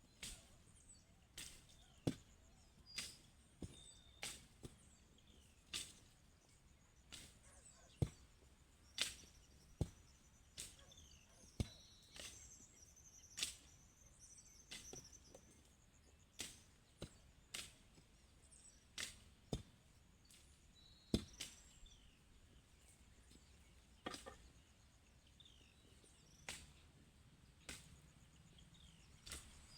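Repeated sharp strikes of a hand tool chopping, roughly one a second at an uneven pace, with faint bird chirps behind.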